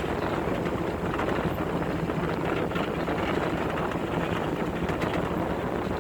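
Two-wheel-drive Chevy pickup driving over an off-road trail: steady engine and road noise with small knocks and rattles.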